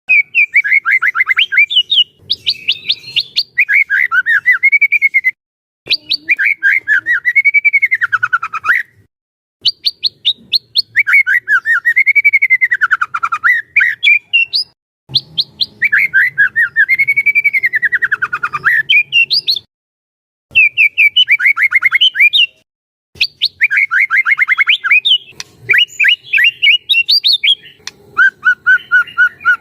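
White-rumped shama singing loudly and without let-up: fast runs of rapid repeated notes that swoop down and back up in pitch, in phrases a few seconds long with brief pauses between.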